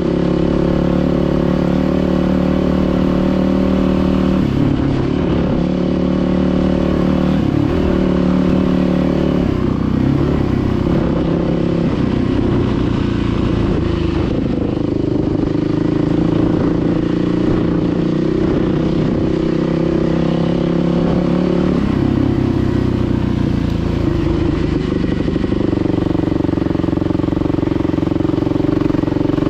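Dirt bike engine running while riding, its pitch stepping up and down several times as the throttle and gears change.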